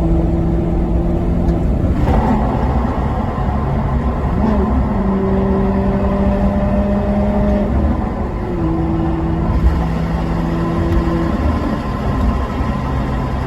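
Maserati Quattroporte Sport GT V8 engine running while the car is driven. The engine holds steady speeds, rising in pitch about two seconds in and again about four and a half seconds in, then dropping back around eight seconds and lower still near the end.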